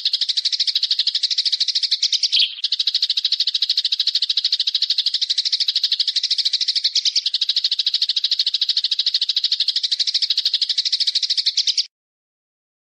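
Recorded bird calls: a fast, high, continuous rattling trill with a brief sweeping note about two and a half seconds in, cutting off abruptly near the end.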